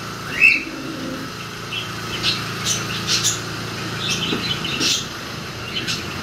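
Birds chirping: short high chirps scattered through, the loudest a short rising one about half a second in, over a steady low background.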